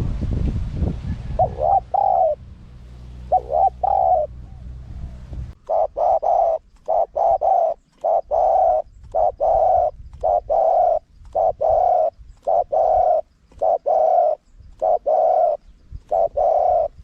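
Spotted dove cooing: a few coos in the first seconds over a low rumble that stops about five seconds in, then a quick, even run of short coo notes, about two a second.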